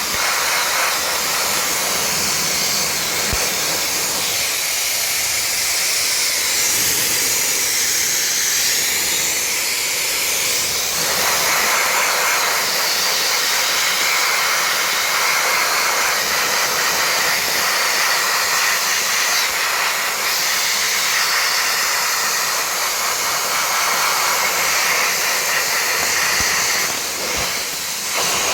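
Sandblaster blasting grit with compressed air onto a rusty steel car part: a loud, steady hiss that dips briefly near the end.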